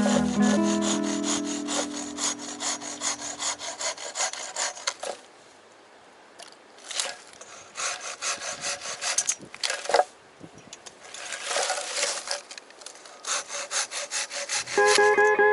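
Hand saw cutting through wood in bouts of quick, even rasping strokes, with short pauses between bouts.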